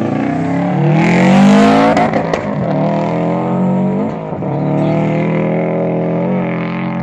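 A turbocharged Subaru Impreza WRX's flat-four engine revving hard as the car launches and accelerates away. Its pitch rises over the first two seconds, dips briefly about four seconds in at a gear change, then holds a steady drone.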